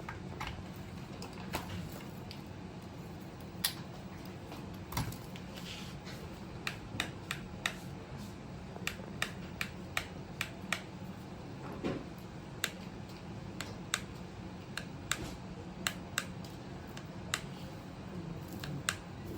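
Irregular sharp clicks and taps, one or two a second and thicker in the second half, over a steady low hum.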